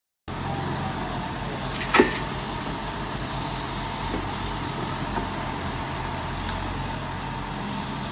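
Radio-controlled model machine running with a steady, engine-like drone, and a sharp clack about two seconds in.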